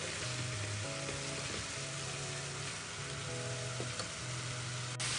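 Minced chicken (keema) sizzling steadily in a pan, cooking in the juices released from the meat, under soft background music with a slow melody.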